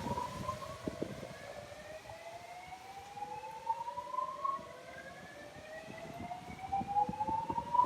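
Siren sounding in repeated rising sweeps, each climbing in pitch over about three seconds before the next starts low, with scattered low knocks of wind on the microphone underneath.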